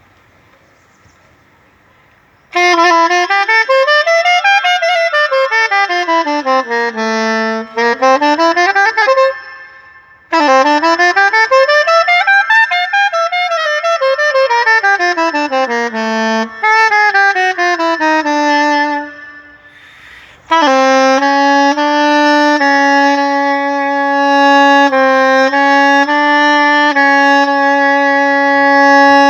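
Soprano saxophone, a Selmer, playing solo: fast scale runs sweeping up and down twice, then after a short pause a slow melody of long held notes.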